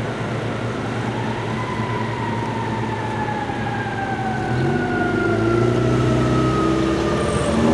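Federal Q mechanical siren on a fire engine winding down in a slow, falling wail. About halfway through, a deeper, louder sound joins it from the truck.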